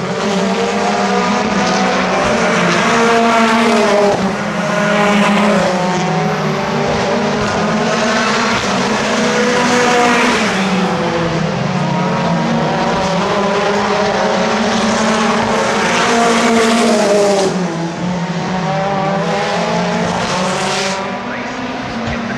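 Several racing cars passing in close succession at speed, their engines rising in pitch and dropping at gear changes, one car after another.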